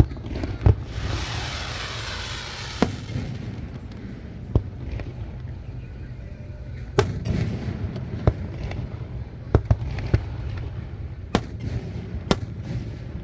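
Aerial fireworks display: sharp bangs of bursting shells every second or so, with a burst of dense crackling about a second in.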